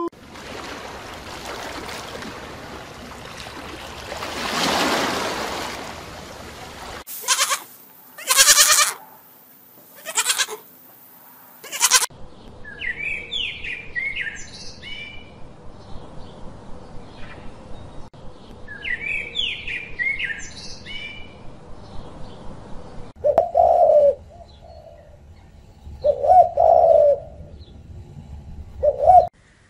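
A string of animal sounds: a rushing hiss that swells and fades over the first few seconds, then several short, loud bursts of hiss. Next come two runs of quick rising bird chirps, and near the end a Eurasian collared dove cooing three times.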